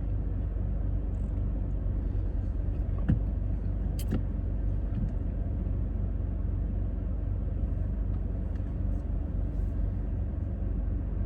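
Car engine idling, heard inside the cabin: a steady low rumble, with a faint click about three seconds in and another about a second later.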